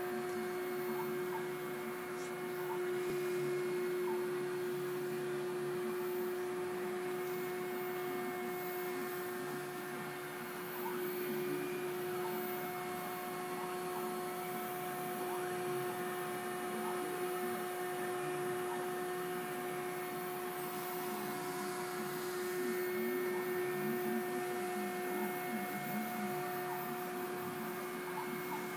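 CNC milling machine's spindle running with a steady high whine, over a rougher machining noise underneath.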